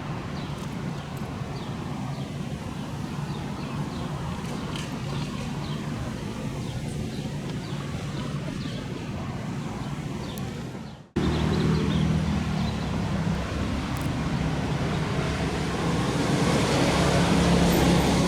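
Outdoor vehicle noise: a steady hum of passing traffic, then an abrupt cut about eleven seconds in to a louder vehicle hum with a low steady drone that swells near the end.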